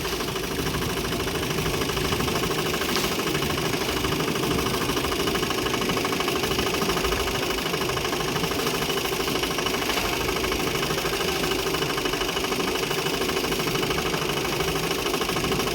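Motorboat engine running steadily at an even pace.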